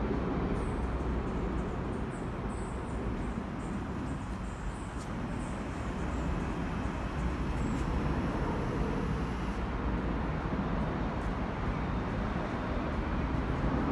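Rumble of a passenger train approaching along the track, growing slightly louder toward the end, with faint high-pitched chirping through the first two thirds.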